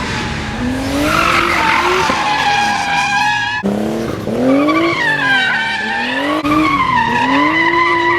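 Turbocharged Nissan R32 Skyline drift car revving up and down as it slides, tyres squealing steadily over the engine. The sound breaks off abruptly about three and a half seconds in and picks up again with more revs and tyre squeal.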